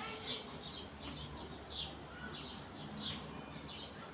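Small birds chirping: short, high chirps, some falling in pitch, repeating two or three times a second over a steady low background hum.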